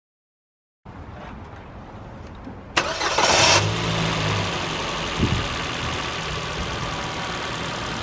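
Car engine started about three seconds in, catching after a brief loud burst and settling into a steady idle: the first start after a fresh oil and oil filter change.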